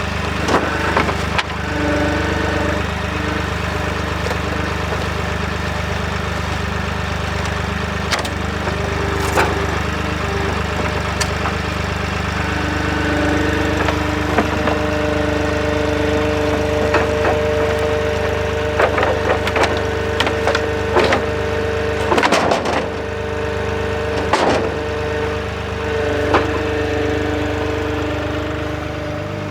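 Avant 755i compact loader's diesel engine running steadily under load, with a whine that comes and goes as the hydraulics work, while wood debris cracks, splinters and clatters in the bucket, in a cluster of knocks about two-thirds of the way in.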